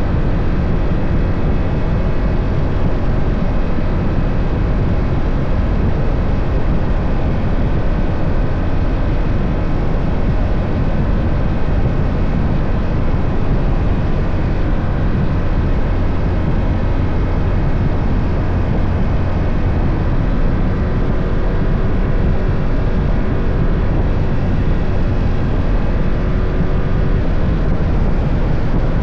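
BMW F 800 GS parallel-twin motorcycle engine running at a steady cruise under way, mixed with wind and road noise.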